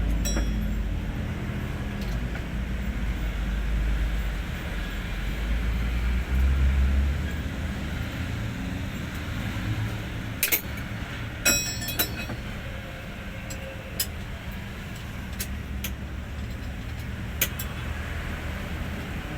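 Hino 500 truck's diesel engine running, a little louder for the first several seconds and then settling to a steadier, lower running sound. A few sharp metallic clinks come about halfway through.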